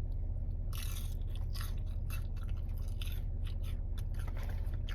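Close-up chewing and biting of food, with irregular crunchy mouth sounds starting about a second in, over a steady low hum from the running car.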